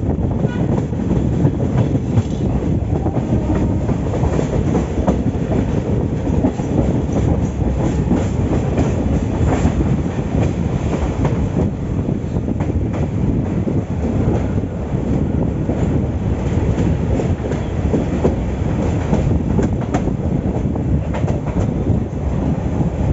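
Passenger train running, a steady rumble of the carriages with the clickety-clack of wheels on the rails.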